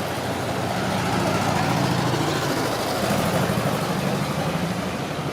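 A motor vehicle's engine running close by over steady street traffic noise, its low hum rising and falling slightly.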